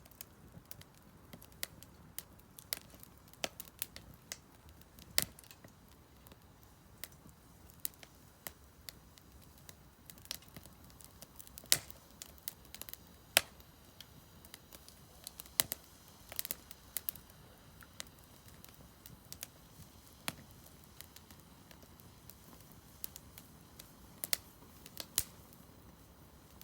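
Split firewood burning in a Solo Stove Campfire fire pit, crackling with irregular sharp pops and snaps, a few louder ones about halfway through.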